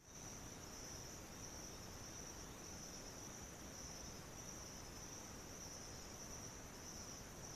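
Night-time insect chorus in rainforest: a steady high-pitched trill that swells slightly now and then, over a faint hiss.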